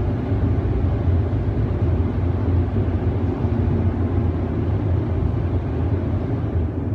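Car wash machinery running: a steady low rumble with a hiss of spray or air above it.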